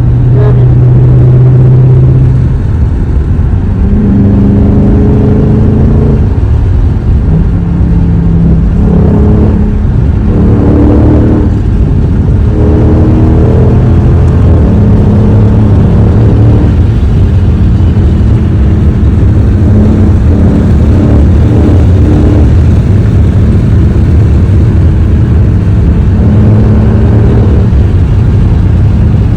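Loud V8 muscle-car engines idling and revving, the engine note rising and falling several times in the middle and running steadier near the end.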